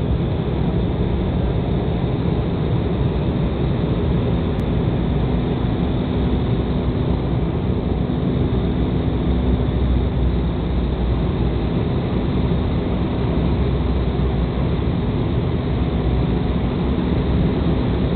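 Steady cabin noise inside an Embraer 195 jet airliner in flight: the rumble of its GE CF34 turbofan engines and the rush of air over the fuselage, with a steady hum joining in about three seconds in.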